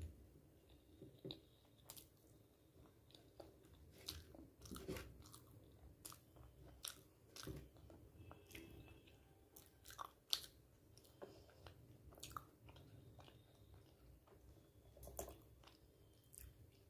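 Faint close-up chewing of luchi and chana dal eaten by hand, with scattered soft mouth clicks throughout and one sharper click about ten seconds in.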